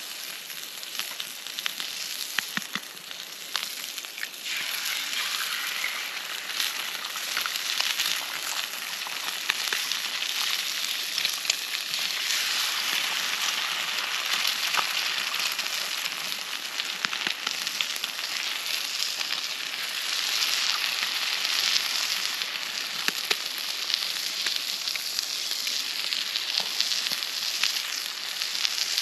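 Food sizzling and spitting in a hot pan over a campfire, a steady hiss full of small pops that grows louder about four seconds in.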